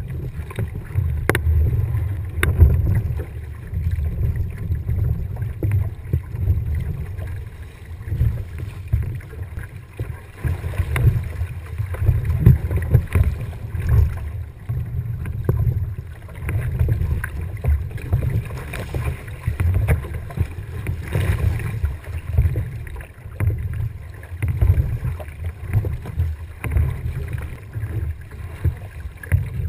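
Wind buffeting the microphone while sailing: an uneven low rumble that swells and drops in gusts, with a couple of brief knocks near the start.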